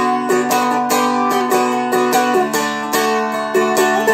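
Seagull Merlin M4, a four-string acoustic dulcimer-style instrument, strummed in an even rhythm. A melody line is played over a steady ringing drone.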